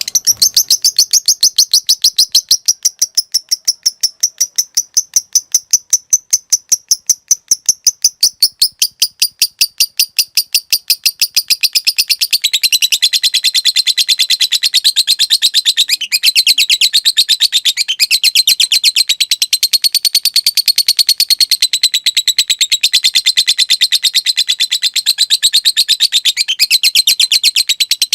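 Fighter lovebird chattering in one long unbroken run. It starts as a fast series of sharp, evenly spaced ticking notes (ngetik). About twelve seconds in it goes straight into a denser, faster and slightly lower chattering trill (ngekek panjang) that carries on to the end.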